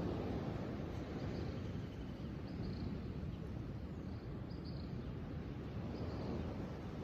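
Outdoor nature ambience: a steady low rush with faint, short high chirps recurring every second or two.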